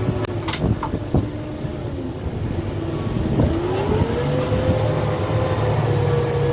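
Kubota M6-141 tractor's diesel engine working under load, revving up about three and a half seconds in and holding at the higher speed. A few sharp cracks sound in the first second or so.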